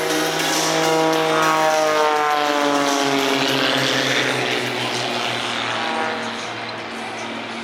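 Propeller airplane flying past during an air show, its engine drone sliding down in pitch as it passes about two to three seconds in, then fading.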